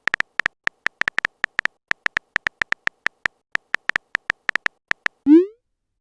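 Phone-keyboard typing sound effect: a fast, uneven run of short, high beep-clicks, one per keystroke. About five seconds in, the typing stops and a quick rising swoop plays, a message-sent sound.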